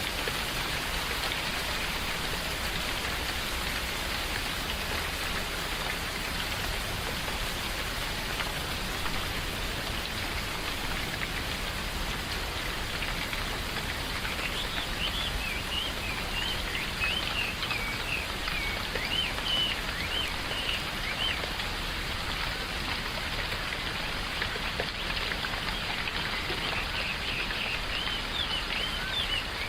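Steady rain falling in a forest, with birds chirping over it in quick runs of short notes about halfway through and again near the end.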